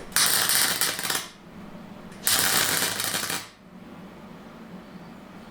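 Two short bursts of welding, each about a second long, crackling as steel angle iron is welded into a Land Rover front panel.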